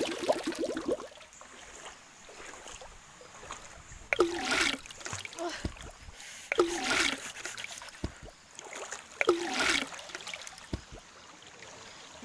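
Water splashing, in three splashes about two and a half seconds apart.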